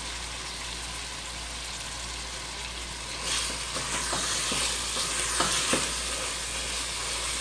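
Minced chicken sizzling in hot oil in a stainless steel pot. About three seconds in the sizzle grows louder as a wooden spatula stirs the mince, with a few short knocks and scrapes of the spatula on the pot.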